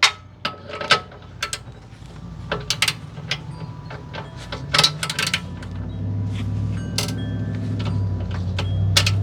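Metal clinks and taps of a wrench turning the eccentric factory camber-adjustment bolt on a car's rear lower control arm, the cam shifting the arm in its housing. A low steady hum comes up behind it and grows louder in the second half.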